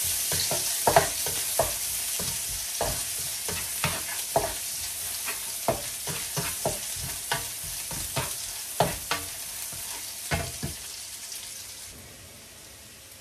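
Sliced garlic and onion sizzling in hot oil in a nonstick wok, stirred with a plastic spatula that scrapes and taps the pan one or two times a second. The sizzle dies down near the end.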